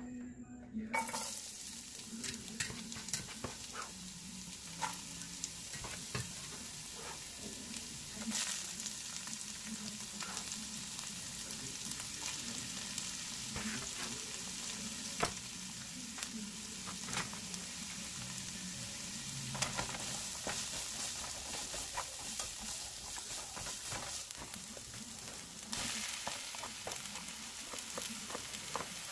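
Diced onion, red bell pepper and carrot sizzling in hot oil in a nonstick frying pan, with a spatula scraping and tapping as they are stirred. The sizzle starts about a second in and grows louder near the end as raw ground pork goes into the pan.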